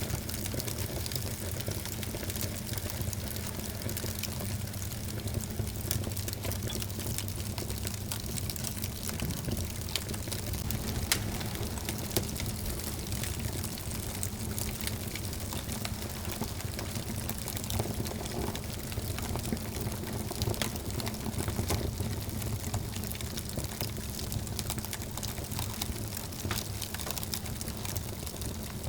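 Wood fire burning in a fireplace: a steady low rush of flames with many small crackles and pops throughout, and a couple of sharper pops near the middle.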